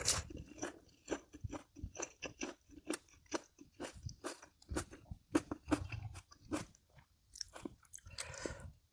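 Close-miked chewing of crunchy food: a run of crisp crunches, about three a second, with a brief pause and a short noisier stretch near the end.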